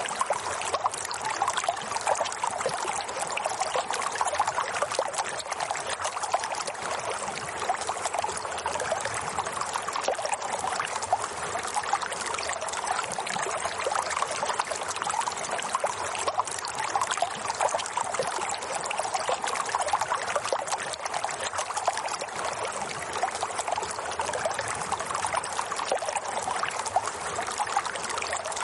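Running water, a steady trickling and splashing that doesn't change.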